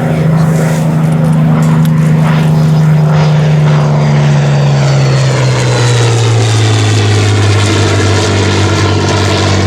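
Rolls-Royce Merlin V12 piston engine of a warbird flying past, a loud steady note whose pitch falls slowly as the aircraft goes by.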